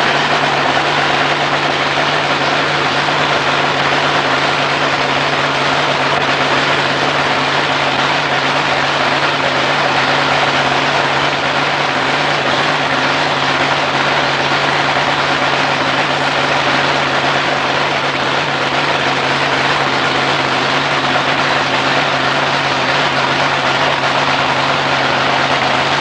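Supercharged alcohol drag boat engine running at a steady fast idle during its warm-up, a loud, even drone that holds one pitch throughout.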